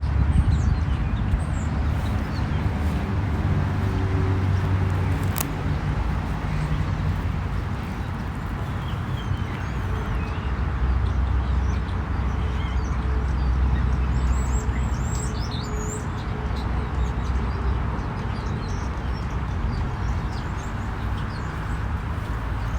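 Small birds chirping, with scattered faint chirps and a burst of quick chirps about two-thirds of the way through, over a steady low rumble.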